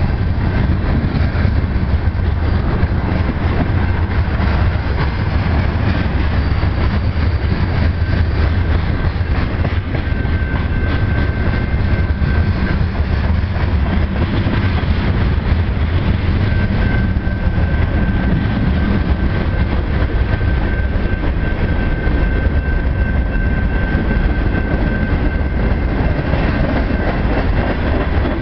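A Canadian Pacific freight train of loaded tank cars rolling past close by: a steady, loud rumble of steel wheels on rail with some clickety-clack. A thin, high, steady whine comes and goes from about ten seconds in.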